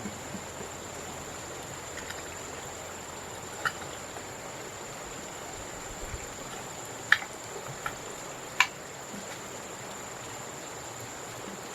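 Four short, sharp bird calls spread across a few seconds, over a steady high-pitched insect whine and outdoor hiss.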